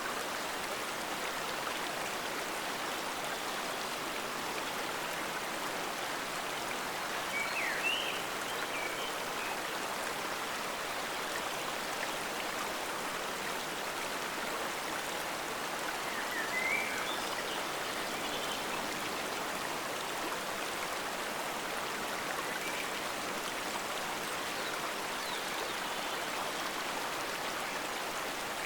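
Forest stream flowing with a steady rushing and bubbling, with a few brief, slightly louder sounds about a quarter of the way in and again just past halfway.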